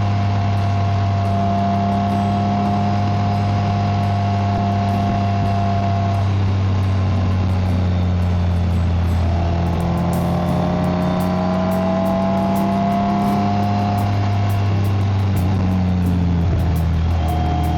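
BMW K1600GT's inline-six engine and exhaust running at a steady cruise, with a whine riding over the engine note that fades about six seconds in and comes back slowly rising in pitch a few seconds later.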